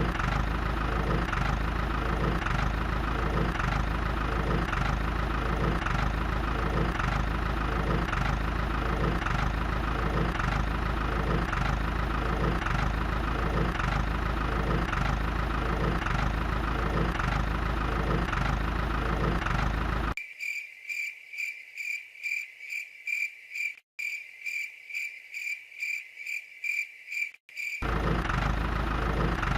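Small electric motor of a DIY toy chaff-cutter model running steadily with a regular beat. About twenty seconds in, the motor sound stops and a high, evenly pulsing chirp takes over for about eight seconds. Then the motor sound returns.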